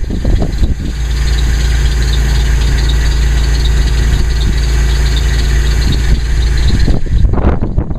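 1999 Chevrolet Malibu's 3.1-litre V6 idling steadily on a freezing cold start, heard through its stock exhaust. A brief rougher, louder rush near the end.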